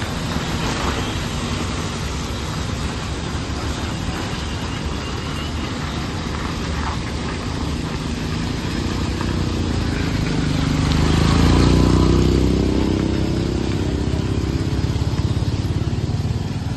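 Chicago Pneumatic CPS550-200 portable diesel air compressor running with a steady loud rumble. Its engine note rises and swells louder about ten seconds in, then eases back.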